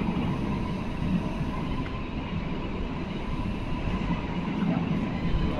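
Bernese Oberland Railway narrow-gauge electric train running slowly through a station, a steady low rumble of motors and wheels with a faint steady whine.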